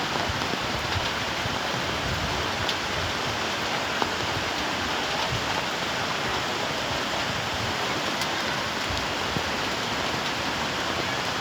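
Steady, even rush of water from a swollen flood river in spate, with a few faint ticks.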